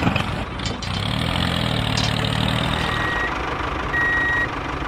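A vehicle engine running steadily, with a reversing alarm sounding short high beeps about once a second, starting about three seconds in.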